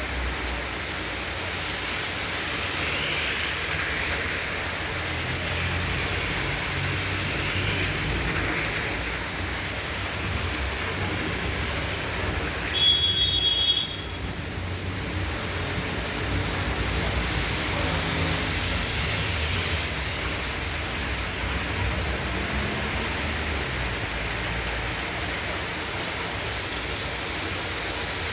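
Heavy rain pouring down in a steady downpour. About halfway through, a brief, loud, high-pitched squeal cuts through for about a second.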